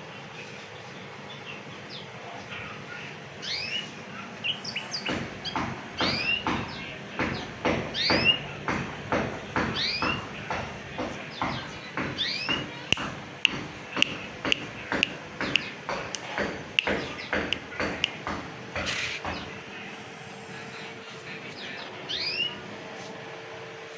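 Pet canary calling: a long series of short, repeated upward-sweeping chirps, about two a second, starting a few seconds in and thinning out near the end, with a few sharp clicks among them.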